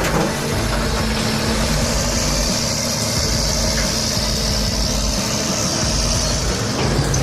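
Caterpillar D6T bulldozer's diesel engine running steadily.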